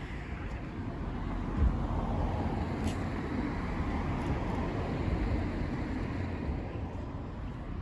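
A car driving past, its engine and exhaust rumble building and then easing off.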